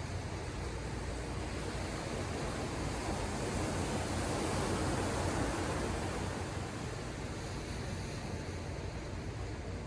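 Ocean surf: the wash of the sea swells to a breaking wave about halfway through, then eases back down, over a steady low rumble.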